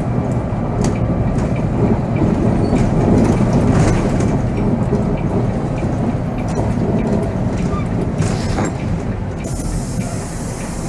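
Volvo B7R coach on the move, heard from the driver's seat: a steady diesel engine rumble with the body and fittings rattling and clicking throughout. A steady hiss joins near the end.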